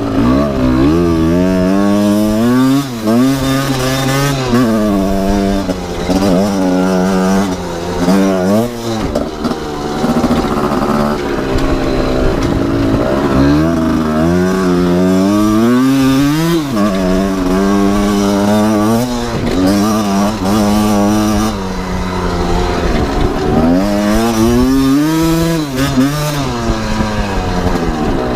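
Two-stroke Kawasaki KR engine swapped into a 2008 Honda CRF250R dirt bike, revving up and falling back over and over, each rise lasting about one to three seconds.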